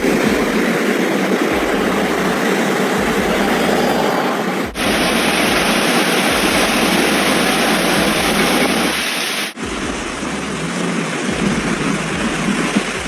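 Loud, steady rushing noise of heavy rain and running floodwater. It changes abruptly about five and ten seconds in as one clip cuts to the next.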